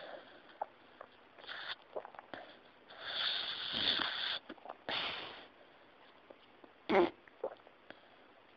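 English Cocker Spaniel snoring in its sleep: irregular breathy snores a second or two apart, the longest a drawn-out breath about three seconds in, and a short, louder snore about seven seconds in.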